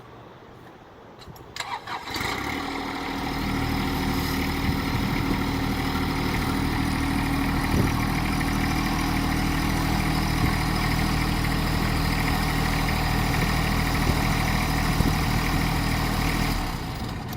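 Compact tractor's three-cylinder diesel engine starting about two seconds in, then running steadily and a little faster from about a second later, before shutting off near the end.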